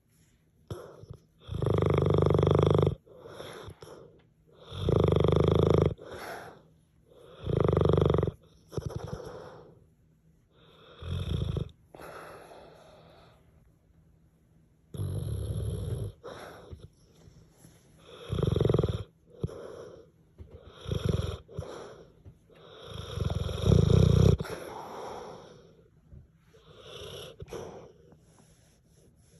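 French Mastiff–Pitbull mix dog snoring loudly in its sleep: about nine long snores, one every two to four seconds, with quiet gaps between them.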